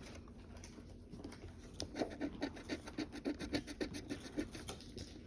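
Lottery scratch-off ticket being scratched, a quick run of short scraping strokes, faint at first and louder from about two seconds in.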